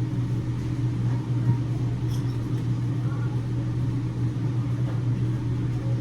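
A steady low hum, running unchanged throughout.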